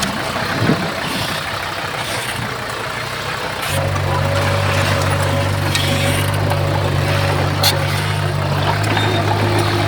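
Heavy diesel engine of earthmoving equipment running. About four seconds in, a steady low engine drone sets in over the rougher working noise, and a sharp click comes near the end.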